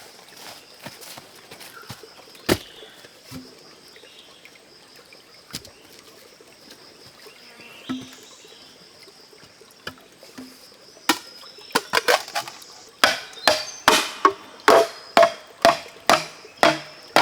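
Bamboo being chopped with a blade: a run of sharp blows, about two a second, starting in the last third, each with a short hollow ring. Before that, only scattered light clicks over a faint steady high buzz.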